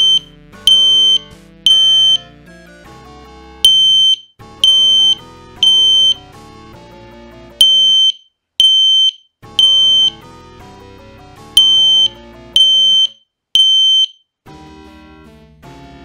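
System Sensor L-Series P2WL horn strobe sounding its high 3 kHz tone in temporal code 3, the fire evacuation signal: four rounds of three half-second beeps. The horn stops a little before the end.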